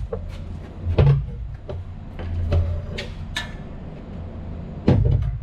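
Scattered metallic clicks and knocks of hand tools being worked on an electric motor and its mount, with a heavier thump about five seconds in, over a steady low machinery hum.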